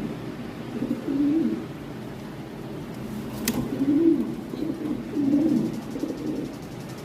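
Toy Lahori Sherazi pigeons cooing: low, rolling coos repeated several times. A single sharp click comes about halfway through.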